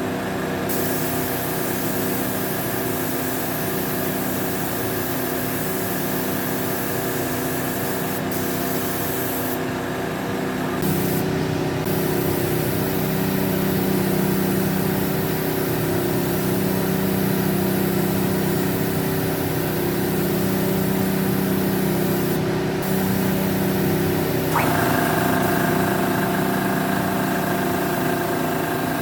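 A machine motor running steadily with a hiss, its tone shifting about eleven seconds in and again near the end.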